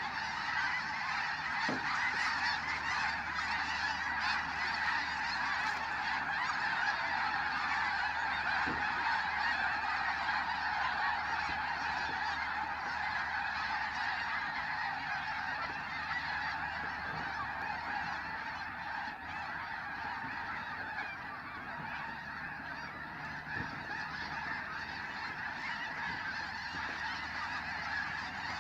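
A huge flock of snow geese honking all together, a dense unbroken chorus of overlapping calls that eases a little in the second half.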